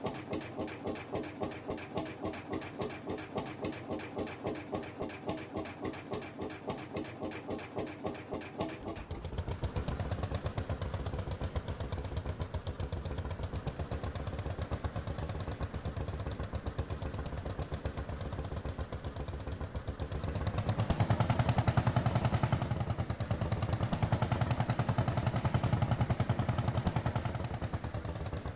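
Lanz Bulldog HR8's single-cylinder hot-bulb two-stroke engine running, at first with a slow, even thump of about three beats a second. About nine seconds in it picks up speed into a faster, louder beat, and it gets louder again about two-thirds of the way through.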